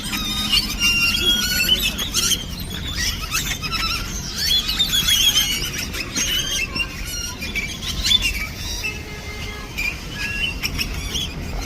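A dense chorus of many birds chirping and squeaking together from one crowded tree, a continuous overlapping jumble of short high calls and squeaky glides.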